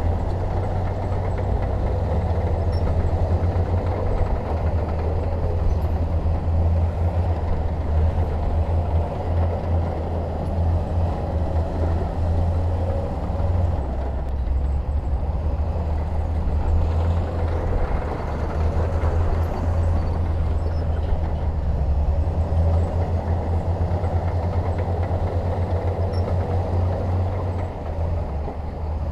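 Heavy diesel earthmoving machinery running steadily, a deep continuous engine rumble.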